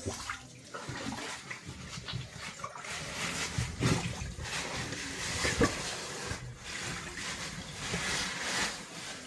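Water sloshing and splashing unevenly in a shallow cave pool, as a body moves through it.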